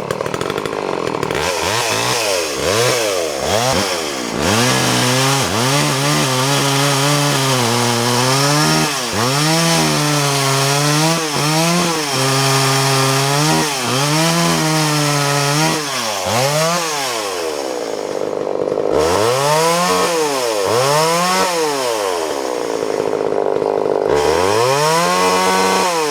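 Homelite 240 two-stroke chainsaw running and being revved again and again. The engine pitch climbs and falls with each blip of the throttle, is held high for a long stretch, then drops back toward idle before revving once more near the end.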